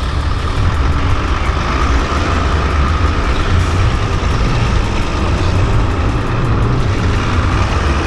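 Truck engine running steadily, a continuous deep rumble.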